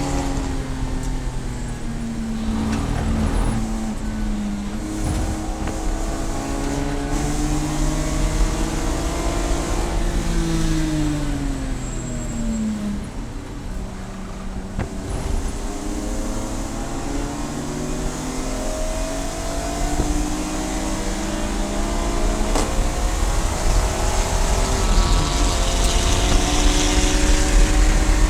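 Race car engine pulling hard, its pitch climbing and falling with the revs. It drops steeply about halfway through as the car slows, then climbs again, over a steady deep rumble of wind and road noise.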